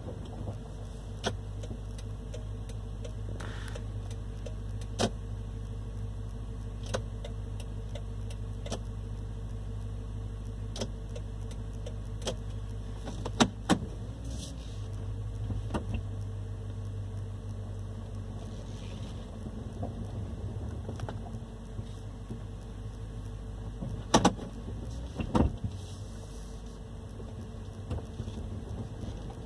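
Steady low hum of a Toyota Sequoia's V8 idling, heard from inside the cabin, with scattered sharp clicks and knocks, a loud pair about halfway through and another pair later on.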